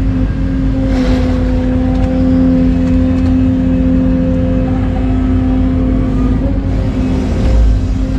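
Excavator diesel engine running steadily under load, a deep rumble with a steady pitched hum over it.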